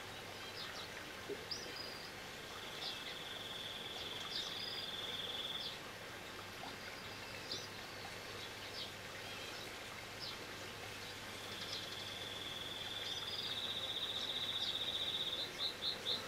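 A small bird singing in the background: two long, even trills of several seconds each at one high pitch, with scattered short chirps between them and a quick run of short notes near the end. A steady outdoor background hum runs underneath.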